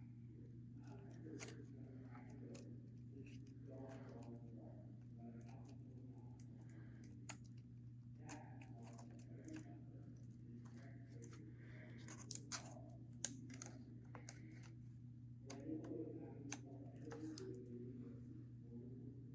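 Faint handling noises as rubber bands are hooked onto a paper clip and a plastic propeller hook: scattered small clicks and rustles, a few sharper clicks about two-thirds of the way through, over a steady low hum.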